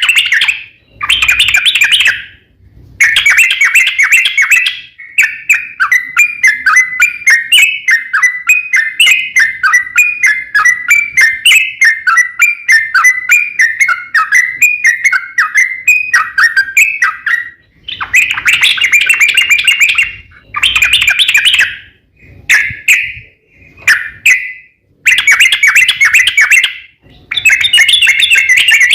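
Yellow-vented bulbul (cucak trucuk) singing loudly in bubbling phrases of a second or two, with short pauses between them. A few seconds in, it breaks into a long, fast run of repeated warbling notes lasting about twelve seconds.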